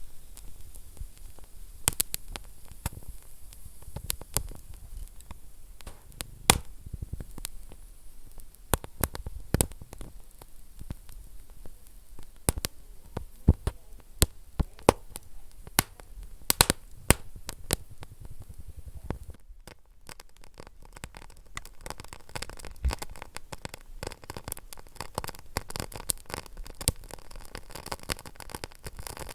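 Wood fire in a fireplace crackling, with irregular sharp pops over a low, steady hiss of burning. About two-thirds through, the crackle turns denser and finer.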